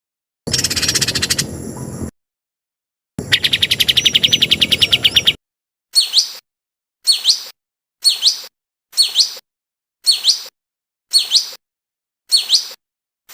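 Songbird calls from a masteran training recording, spliced together with dead silence between the pieces. First comes a buzzy trill of about a second and a half, then a fast trill of rapid high notes for about two seconds, then a short, sharp, hooked call that repeats about once a second.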